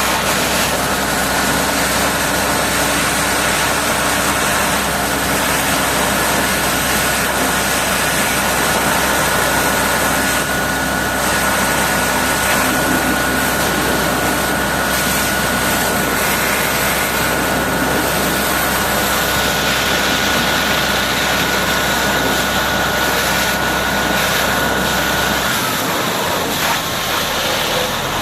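A large engine running steadily with a low rumble and a constant high whine. About 25 seconds in, the whine stops and the lowest rumble drops away.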